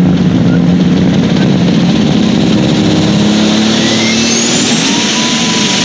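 Pulling tractor engine running loudly and steadily, with a thin high whine that rises about three and a half seconds in and then holds.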